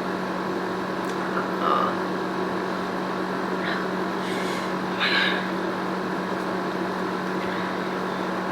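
Steady machine hum in the room, with a few faint short noises about two, four and five seconds in.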